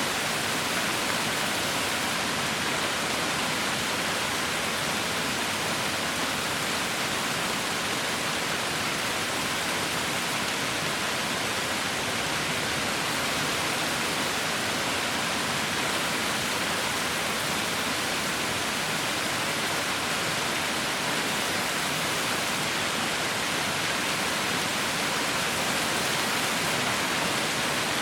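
Heavy rain falling steadily, a constant, even hiss with no individual drops standing out.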